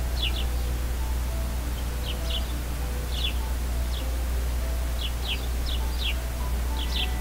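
Birdsong made of short, quick downward chirps in small clusters, over soft, slow background music with a low steady drone.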